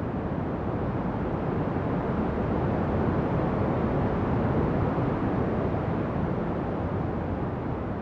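Ocean surf: a steady low rush of waves that swells over the middle few seconds and eases again.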